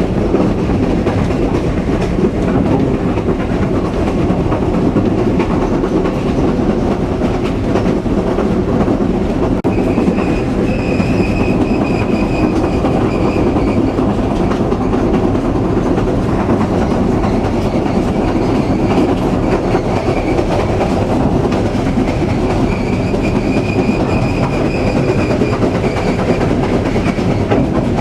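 Passenger train running steadily, with a continuous rumble and clatter of wheels on the rails. Twice a faint high squeal rises over it for a few seconds, first about ten seconds in and again near the end.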